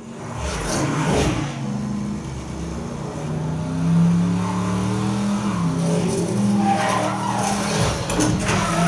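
Race car engines running and revving with tyres skidding, from a racing film's soundtrack.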